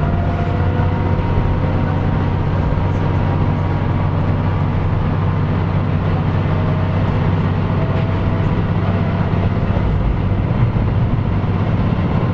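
Onboard running sound of a KiHa 125 diesel railcar: a steady diesel engine drone with a low hum, and faint whining tones that shift a little in pitch.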